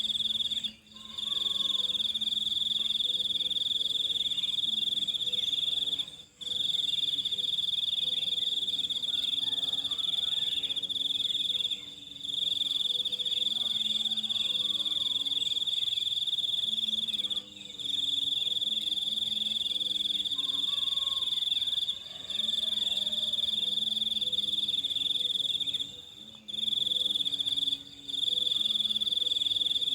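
Steady, high-pitched insect trill, cricket-like, that breaks off briefly every few seconds and resumes.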